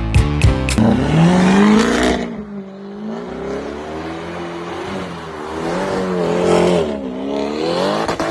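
A sports car's engine revving and accelerating, its pitch climbing and then rising and falling several times. It comes in just after a short stretch of beat-driven music.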